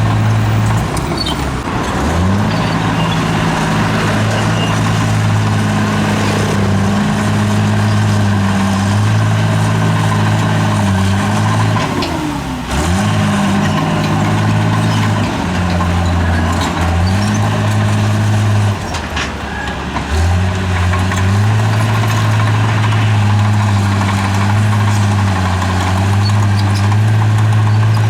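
Bulldozer's heavy diesel engine working. Its note sags and climbs back several times, most deeply about halfway through, as the load on the engine changes.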